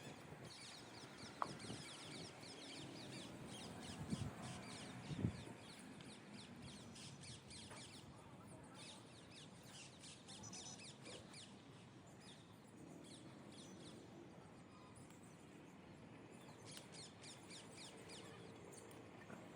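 Birds chirping faintly in quick runs of short high chirps, with a few soft knocks in the first five seconds.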